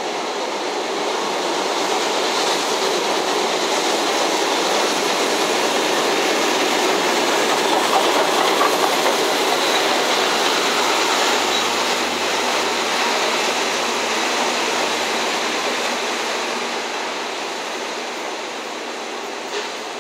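Train passing: an EF65 electric locomotive hauling a D51 steam locomotive and 12-series passenger coaches, its wheels running on the rails in a steady rumble. The noise grows to a peak around halfway as the locomotives go by, then slowly fades as the train draws away.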